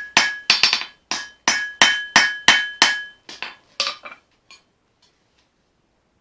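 Hand hammer blows on leaf-spring steel on an anvil, about three strikes a second, each with a short metallic ring. After about three seconds the blows turn into a few lighter taps, which stop about four and a half seconds in.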